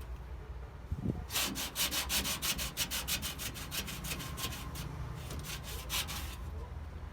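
Rusted metal casing of a microwave being scrubbed down by hand, with quick back-and-forth rubbing strokes, about four or five a second. The strokes start about a second in and stop near the end.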